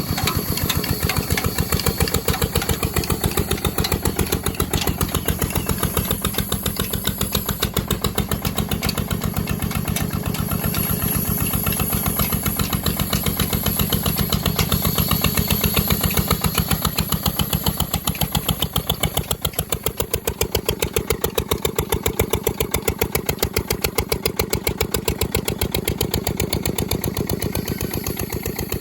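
Diesel engine running steadily in the cold, its firing strokes heard as a rapid, even chugging. It eases off slightly about two-thirds of the way through.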